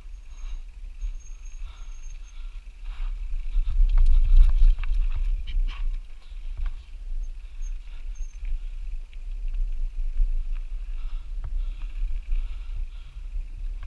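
Wind rumbling on the microphone as a mountain bike (a Lapierre Zesty AM 427) rides downhill, with scattered clicks and rattles from the bike over rough ground. The rumble gets louder about four seconds in.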